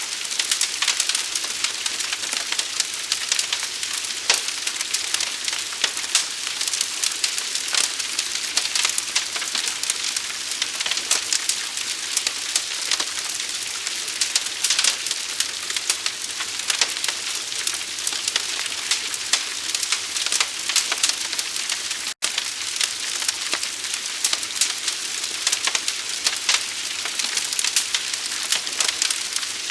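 Large fire burning with a dense, steady crackle: a hiss packed with countless small pops and snaps. The sound cuts out for an instant about two-thirds of the way through.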